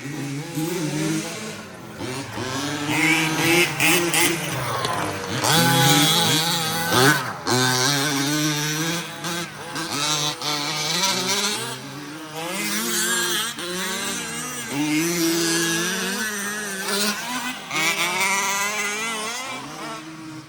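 Several radio-controlled 4WD race trucks running together, their motors whining and repeatedly rising and falling in pitch as they accelerate and slow around the track.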